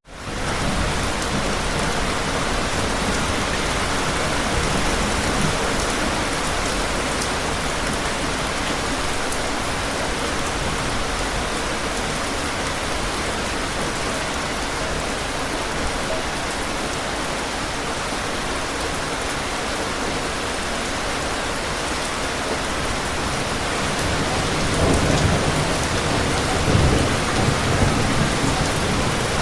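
Steady, dense rainfall, with low rolls of thunder rumbling under it about 25 seconds in.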